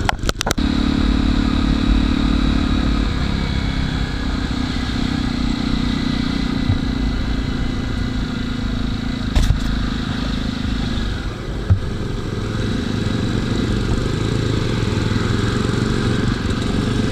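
A motorcycle engine running steadily under a low rumble of wind and road noise. There are a few sharp knocks at the start, and single ones about nine and a half and twelve seconds in.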